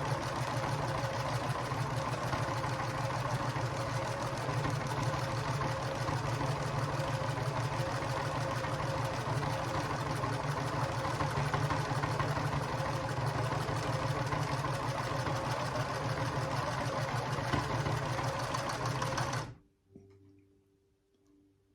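Home sewing machine running steadily while quilting through a small quilt, then stopping abruptly near the end.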